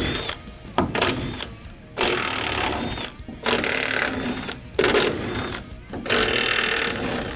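Impact wrench running in several bursts of about a second each, backing out car door hinge bolts.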